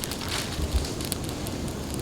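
Large brush bonfire burning: a steady rush of flames with a few sharp crackles and pops from the burning wood.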